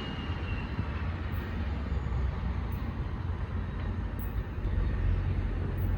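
New Jersey Transit Atlantic City Line train at the station: a steady low rumble, with a thin high whine that falls in pitch and fades out about a second in.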